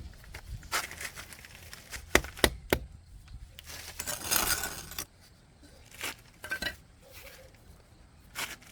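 Objects being handled: a few sharp clinks and knocks about two seconds in, then a rasping, tearing noise lasting about a second, with scattered smaller knocks after it.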